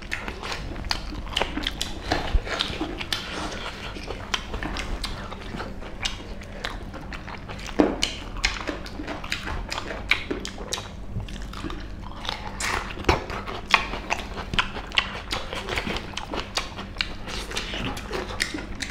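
Close-up eating sounds: biting and chewing meat, a steady run of short, irregular clicks. The meat is mutton and pork curry with rice, eaten by hand.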